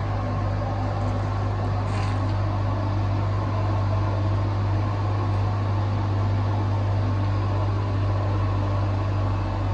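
2022 Honda Civic Hatchback's four-cylinder engine idling steadily while warming up after a cold start.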